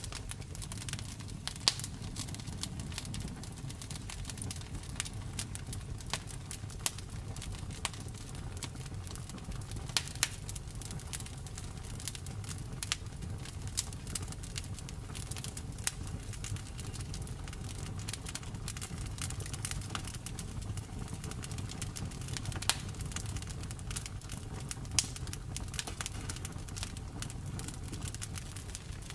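Wood fire crackling: a steady low rush of flames with irregular sharp snaps and a handful of louder pops.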